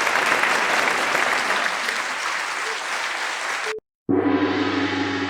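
Audience applauding, cut off abruptly almost four seconds in. After a brief silence a gong is struck and rings on with many steady tones.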